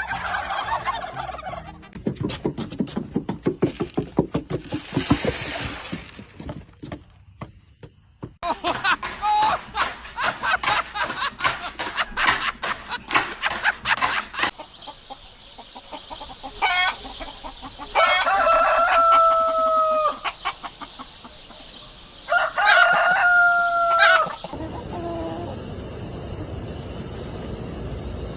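Chickens clucking in rapid runs, then a rooster crowing twice, each crow one long held call, followed near the end by a steady hiss-like noise.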